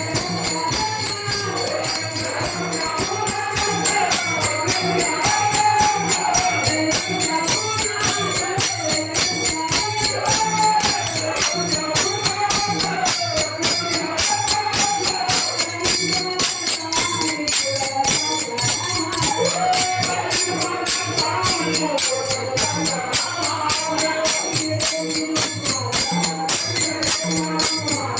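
Marathi devotional bhajan: voices singing a melody over taal hand cymbals clashing in a steady rhythm and a mridang drum keeping the beat.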